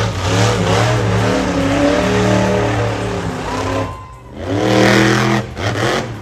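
Monster truck engine revving hard in long pulls, dropping off sharply about four seconds in before revving up again.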